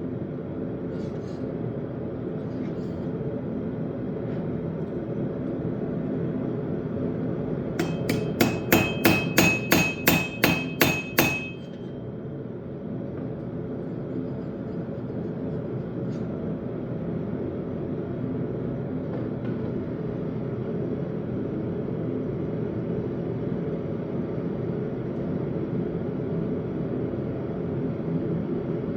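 Blacksmith's hammer striking steel on an anvil: about a dozen ringing blows at roughly three to four a second, starting about eight seconds in and stopping after about three and a half seconds. A steady low rushing noise runs underneath throughout.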